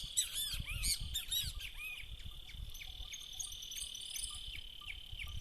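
Chorus of frogs and insects singing after rain: a steady high trill underneath, with many short whistled calls that crowd together in the first two seconds and then thin out.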